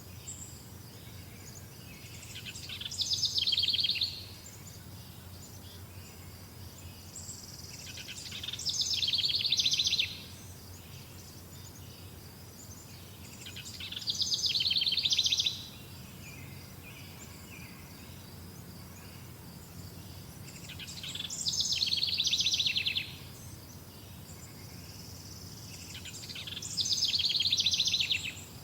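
A songbird repeating a rapid trilled song phrase five times, each about a second and a half long, getting louder and then stopping abruptly, about every five to six seconds. A faint steady high insect chirring continues between the songs.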